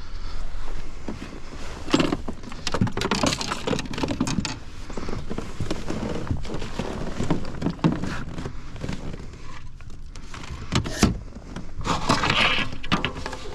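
Irregular knocks, clicks and rattles with rustling between them: fishing gear and a freshly caught bass being handled in a kayak.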